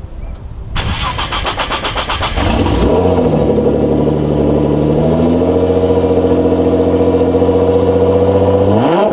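Nissan GT-R R35's twin-turbo 3.8-litre V6 cranking over rapidly for about a second and a half before it catches. It flares up, then settles into a steady, loud idle through catless downpipes. The long crank comes from running on E85, which the owner says needs many turns of the starter before it fires.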